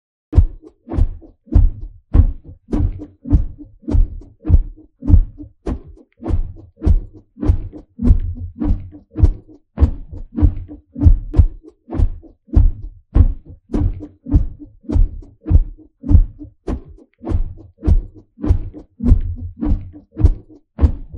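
Heartbeat sound effect: a steady train of low, dull thumps, a little over two a second.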